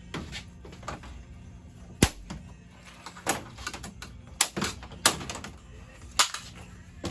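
Irregular sharp clicks and knocks of plastic and metal parts being handled and worked loose while a flat-screen TV is taken apart. The loudest knock comes about two seconds in, with a cluster of clicks between three and six and a half seconds.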